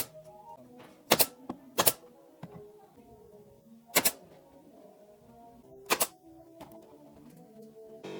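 Five sharp, very short knocks at uneven intervals, a second or two apart, over soft background music.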